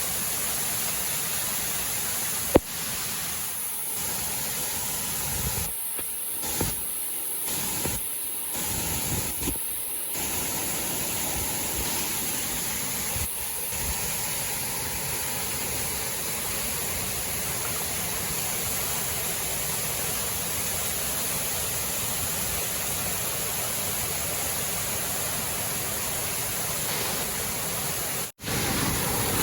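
Waterfall, water rushing steadily, with one sharp click about two and a half seconds in.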